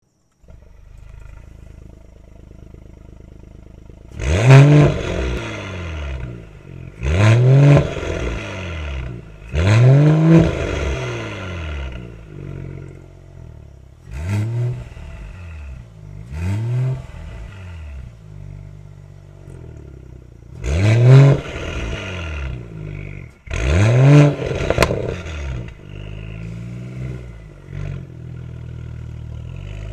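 Mercedes-AMG E53 coupe's 3.0-litre turbocharged inline-six, through a JHG valved aftermarket exhaust with high-flow 200-cell metal catalytic converters, idling and being revved: seven free revs, five hard ones and two shorter blips, each rising and falling in pitch and dropping back to idle between them.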